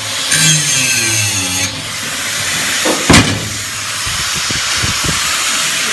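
Angle grinder grinding down weld seams on steel, a steady high hiss with a motor whine in the first second or so. One loud knock comes about three seconds in, followed by a few lighter ones.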